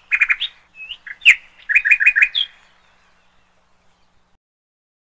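Small bird chirping in quick runs of short, high chirps, which stop about two and a half seconds in.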